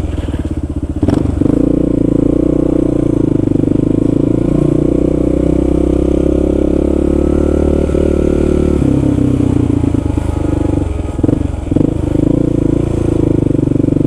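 Kawasaki KLR650's single-cylinder four-stroke engine running as the motorcycle is ridden, its note changing about nine seconds in and again briefly around eleven to twelve seconds.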